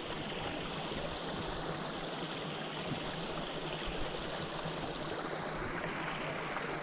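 Steady rush of stream water flowing under a bridge, heard through a small action camera held inside a drainage hole.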